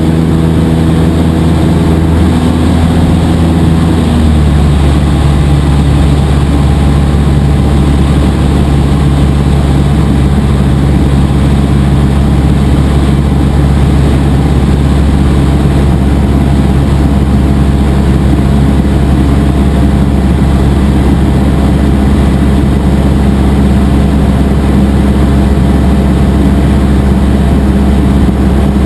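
Cessna 172 SP's four-cylinder Lycoming piston engine and propeller running loudly and steadily. The engine note shifts about two and again about four seconds in, a change in power setting, then holds steady.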